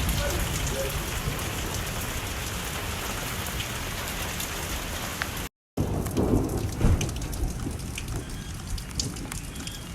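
Torrential rain and strong wind of a severe, tornado-producing thunderstorm, with gusts rumbling on the microphone. The downpour is a dense, heavy hiss at first; after a brief dropout about halfway through it thins to gusty rumbles and scattered drops hitting.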